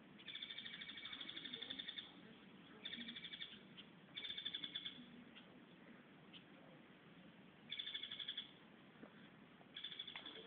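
A bird calling in five separate bursts of fast, rattling trills, each under two seconds long, with pauses of about one to three seconds between them.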